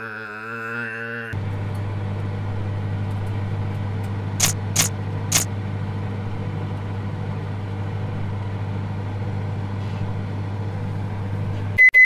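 Cartoon microwave oven running with a steady electric hum, which starts a little over a second in. Three sharp clicks come about four to five seconds in, and the hum ends with a short high beep as the timer runs out.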